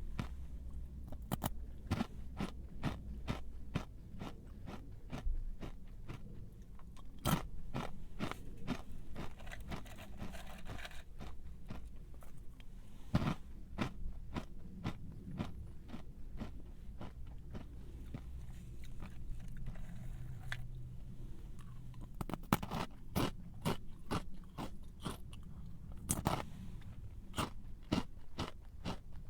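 A crunchy snack being bitten and chewed close to the microphone: a dense run of crisp crunches, with a few louder bites spread through.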